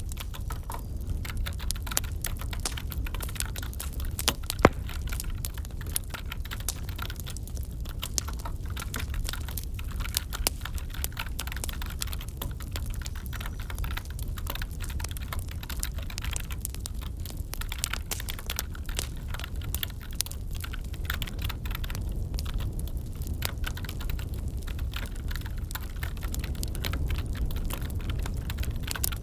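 Wood fire crackling with dense irregular pops over a steady low rumble, mixed with computer keyboard typing. One sharp pop stands out about five seconds in.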